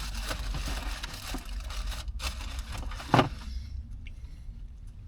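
Paper sandwich wrapper rustling and crinkling as it is handled, with one sharp knock a little past three seconds; the rustling stops soon after.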